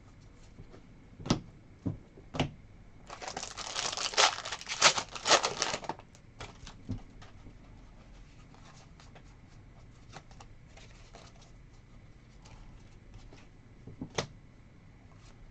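A sports-card pack wrapper being torn open and crinkled for about three seconds, with a few sharp taps before it and light card handling after.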